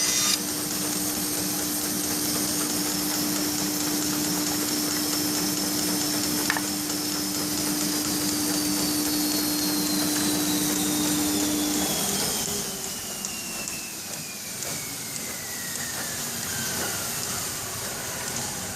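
Vintage American 38-inch bandsaw, driven by a flat belt, running free with a steady hum and then shut off. One sharp tick about six seconds in, then the hum stops and the big wheels coast down, their whine sliding steadily lower in pitch as the saw slows.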